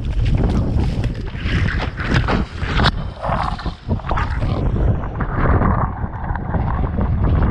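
Strong wind buffeting the microphone in a heavy low rumble, with water rushing and splashing in waves of hiss that come and go, as a foil board rides downwind over rough water.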